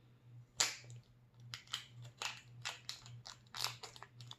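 Small plastic toy packaging being handled and opened: a sharp snap about half a second in, then a string of short crinkles and crackles.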